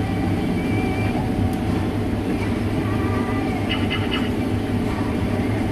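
Combine harvester running steadily at work in beans, a loud, even engine and machinery drone with a low hum. A few brief high chirps come about four seconds in.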